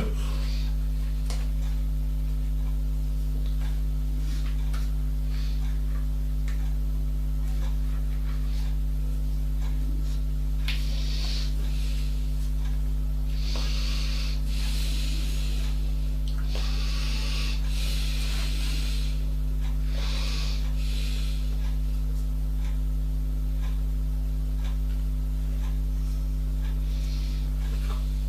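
A steady low electrical hum runs throughout. Short rubbing, scraping noises come and go several times in the middle.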